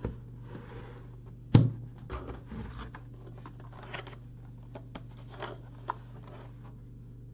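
Handling of a mini fridge and its packaging: rustling and scraping, with one loud thump about one and a half seconds in, then a few small clicks and taps, over a steady low hum.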